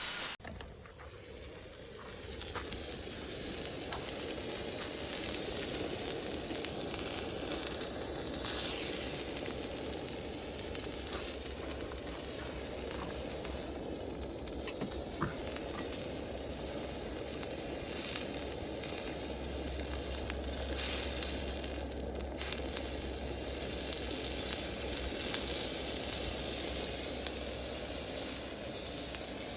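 Food sizzling as it cooks over a campfire: a steady sizzle with scattered sharp crackles.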